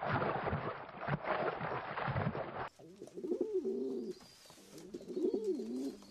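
A rushing noise for the first two and a half seconds, then a rock pigeon cooing twice, each coo a rolling, wavering call lasting about a second.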